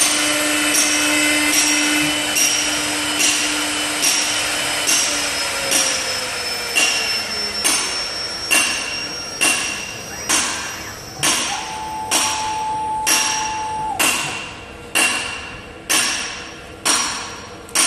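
Wood-turning lathe running, its steady hum slowing and falling in pitch about five seconds in as the machine winds down. Over it, a regular metallic clack comes a little faster than once a second and grows more distinct as the running noise dies away.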